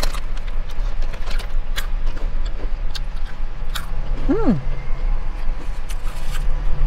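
Close chewing and wet mouth clicks from someone eating a lettuce wrap, with a short hummed "mm" about four seconds in, over a steady low rumble in the car cabin.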